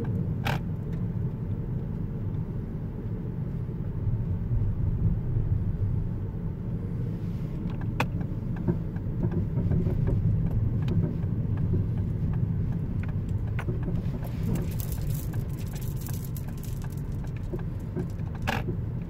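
Ford Focus Mk2.5 driving, with a steady low road rumble and a few sharp knocks or clicks from the chassis: about half a second in, about 8 s in, and near the end. This is the intermittent underbody noise, worst on uneven road, whose cause is not yet known.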